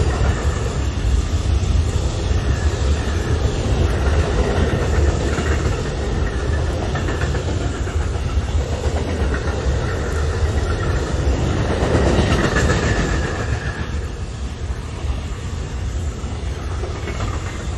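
A train rolling past on the track, a continuous loud rumble of wheels on the rails that eases a little after about 13 seconds.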